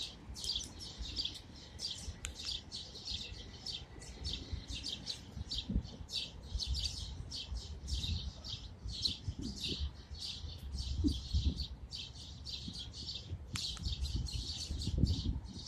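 A flock of a dozen or more small birds chirping at a feeder, many short high chirps overlapping without a break, over a low background rumble.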